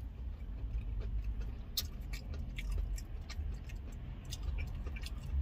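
A person chewing fried chicken and smacking their lips: small wet clicks at irregular intervals over a steady low hum.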